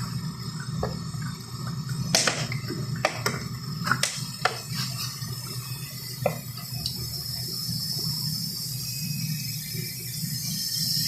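Compressor oil being flushed out of a refrigerator's condenser: liquid running and splashing over a steady hiss, with a few short knocks and clicks.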